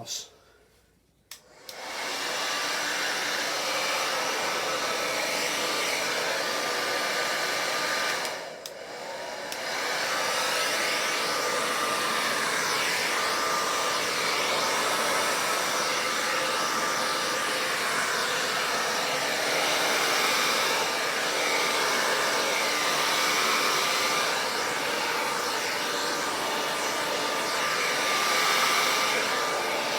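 A hairdryer switches on with a click about a second and a half in and runs steadily, blowing air. It dips briefly about eight and a half seconds in, then carries on.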